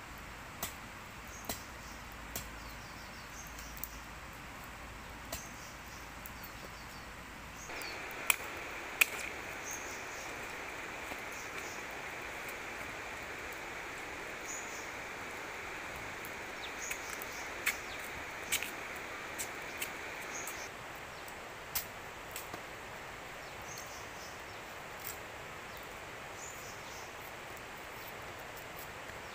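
Outdoor ambience: a steady background hiss with short faint chirps and scattered sharp clicks and taps, two of them louder about eight and nine seconds in. A louder, higher steady hiss comes in about eight seconds in and cuts off about thirteen seconds later.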